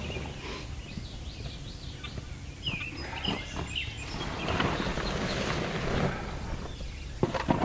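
Birds calling with short chirps over steady outdoor background noise, with a few sharp knocks near the end.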